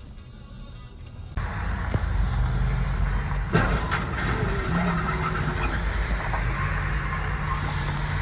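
Motor vehicle engine and road noise. It turns suddenly louder about a second and a half in, with steady low engine tones and a couple of sharp knocks a little later.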